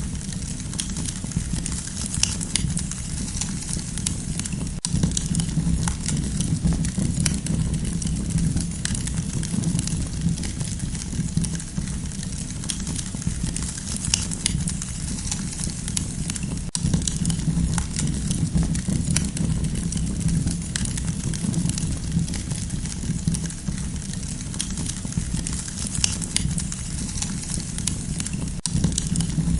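Campfire burning, with frequent small crackles and pops over a steady low rush of flame.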